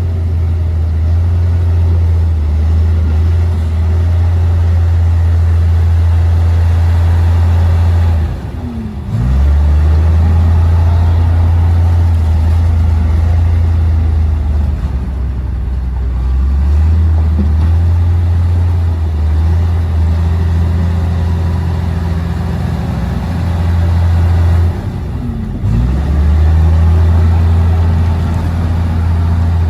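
Diesel engine of a Komatsu D58P crawler bulldozer running under load with a steady low drone. Twice the engine note dips briefly and then picks back up.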